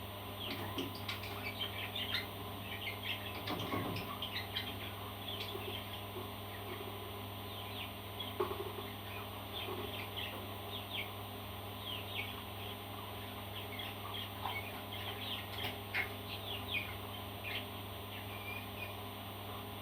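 Parrot chirping: many short, high chirps in quick succession, over a steady low hum.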